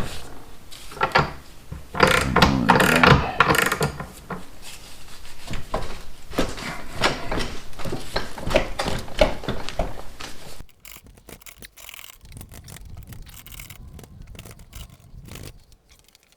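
Irregular metal scraping, rubbing and knocks as a motorcycle engine is shifted and worked forward against the frame, busiest for a couple of seconds near the start. The sound drops away to faint handling noises about two-thirds of the way through.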